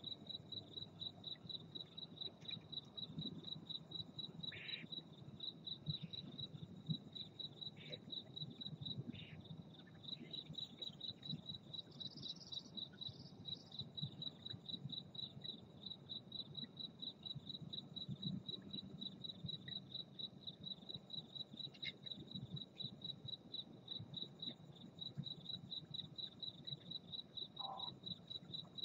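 A cricket chirping at night: a high, even train of rapid chirps that keeps a steady rhythm, with a few faint, brief calls over it.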